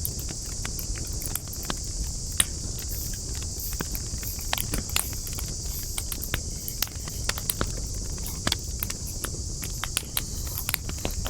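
Wood campfire crackling, with irregular sharp pops and snaps over a low rumble, one louder pop about two seconds in. A steady high hiss runs underneath.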